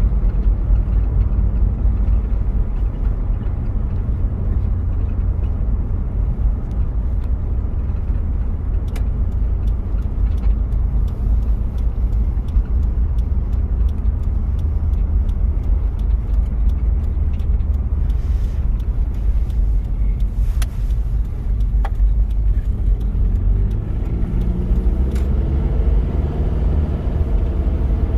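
1993 Toyota Prado's diesel engine and road noise while driving, heard as a steady low drone inside the cabin. Scattered light clicks and rattles come through in the middle stretch, and the engine note climbs near the end as it pulls harder.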